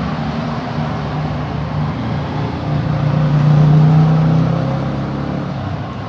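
A motor running steadily with a low hum that swells louder a little past halfway and then fades back.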